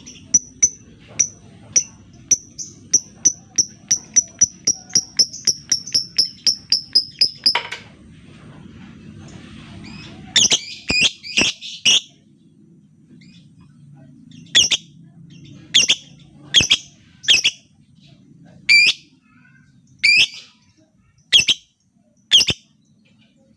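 Lovebird calling: a fast run of short, high chirps that quickens for about seven seconds, then a quick flurry of sharp calls, then single harsh calls about a second apart.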